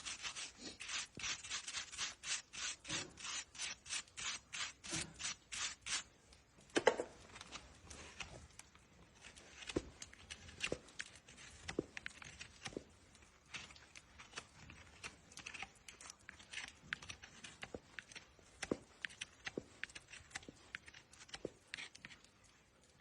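Farrier's rasp scraping across a horse's hoof in fast, even strokes, about three a second, for the first six seconds. After that come slower, irregular rasping and scraping strokes.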